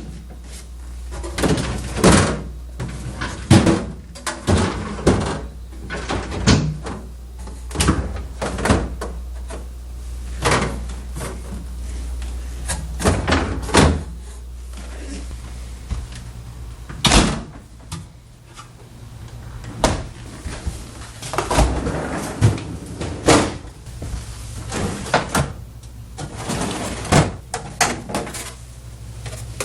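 Doors, drawers and bins of an LG French door refrigerator being opened, shut and handled: a long irregular run of knocks, clunks and thuds over a low steady hum.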